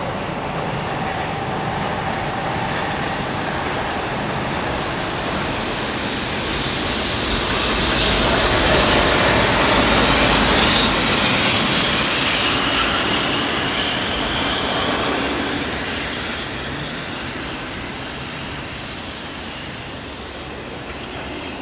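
Electric train running on the line: rolling wheel and rail noise swells to a peak about halfway through and then fades away.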